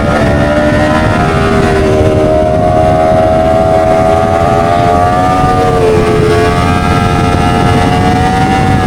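Motorcycle engine running under way, its pitch slowly rising, dropping about six seconds in and then rising again, over a steady rush of noise.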